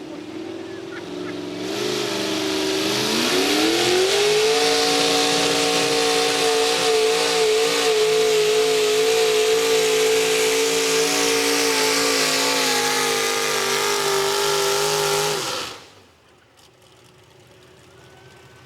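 Modified pulling tractor engine winding up from a lower speed to full revs about three seconds in, then running flat out at a steady high pitch under the load of the sled. It cuts off suddenly near the end as the run is shut down.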